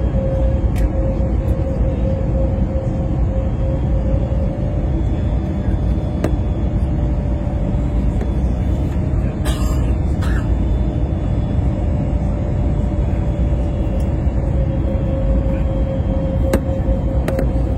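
Steady low rumble of a jet airliner's cabin with an even hum over it, and a brief hiss or rattle about nine and a half seconds in.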